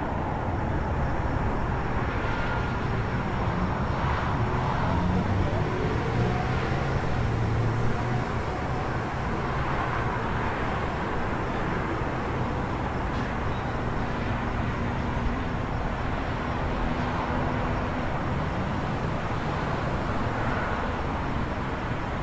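City street traffic ambience: a steady wash of passing cars and engine hum, with no single event standing out.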